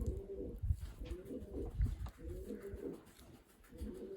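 Racing pigeons cooing: about four low, wavering coos one after another.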